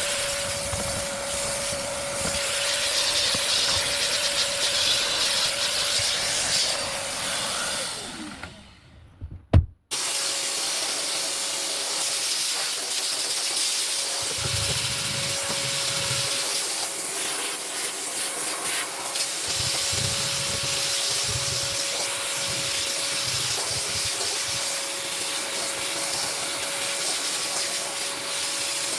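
Car vacuum cleaner running with a steady rushing hiss and a thin high whine. About eight seconds in it fades out, there is a sharp click, and it comes straight back on at full level.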